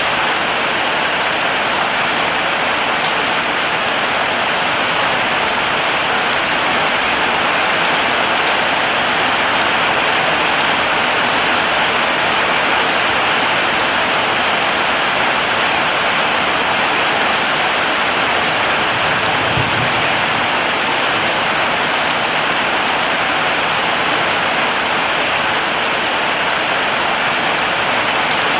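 Heavy rain falling steadily: a dense, even hiss of downpour with no change in strength.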